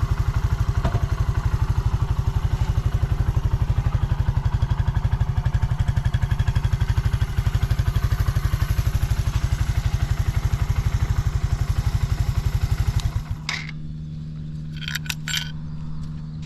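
Suzuki GN125H's single-cylinder four-stroke engine idling steadily with even exhaust pulses and no abnormal noises, then cut off about thirteen seconds in. A few light clicks and clinks follow over a steady low hum.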